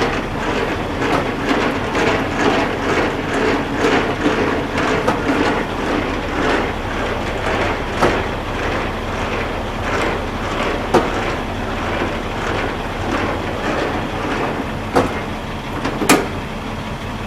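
Semi truck engine idling steadily, with irregular metallic clicks and clanks of a tractor being hooked up to its trailer; the sharpest clank comes about sixteen seconds in.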